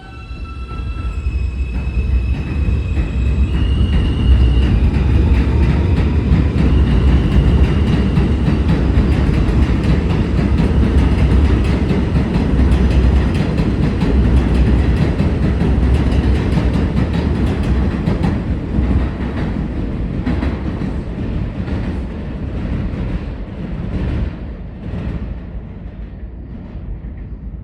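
Passenger train running past on the rails: a loud low rumble builds within about two seconds, with a high steady whine over the first several seconds. It then slowly fades with rapid clicks of wheels over rail joints near the end.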